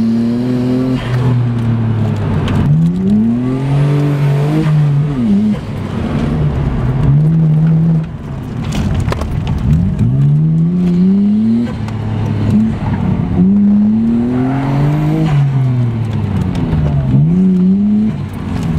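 Nissan R33 Skyline GTR's twin-turbo straight-six heard from inside the cabin, revving hard under acceleration; its note climbs and falls several times as the car speeds up and slows through an autocross course.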